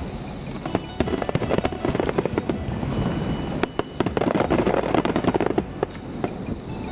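Fireworks bursting and crackling, a dense run of pops and cracks from about a second in until near the end. It is stock fireworks audio dubbed over the footage, not sound recorded at the display.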